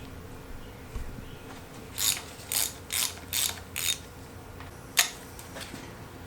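Hand ratchet wrench clicking in five quick back-strokes, about two a second, while working a fastener loose during engine teardown, followed about a second later by one sharp click.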